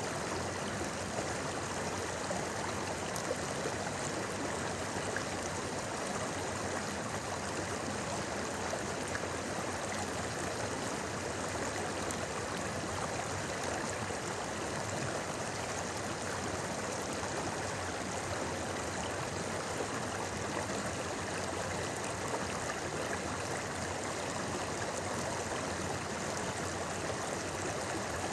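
A river stream flowing over rocks, a steady babbling rush of water.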